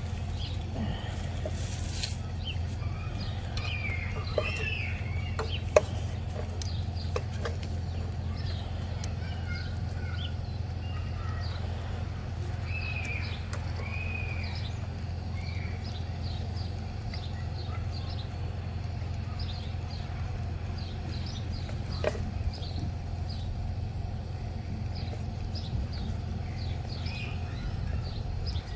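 Birds chirping and calling in short notes over a steady low hum, with two sharp knocks, one a few seconds in and one about three-quarters of the way through.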